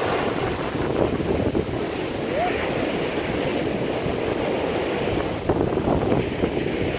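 Strong wind buffeting the microphone over heavy surf breaking on a beach, a loud, steady roar of noise. Hurricane-force gusts.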